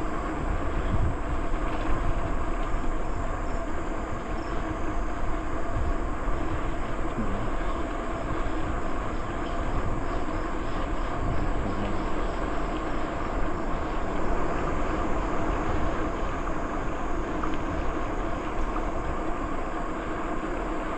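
Bicycle riding over a rough trail surface: a steady rumble and rattle of tyres on the ground, mixed with wind on the microphone.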